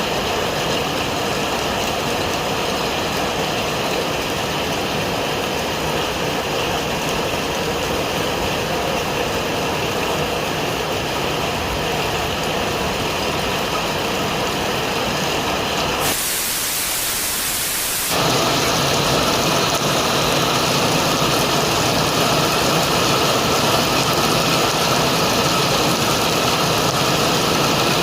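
Motorcycle engine running steadily under a haze of wind and rain noise. About sixteen seconds in it gives way to two seconds of plain hiss, then the engine sound comes back a little louder.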